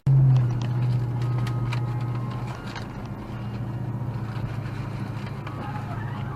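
A car running: a steady low hum that is loudest at first and slowly fades, with a few faint clicks.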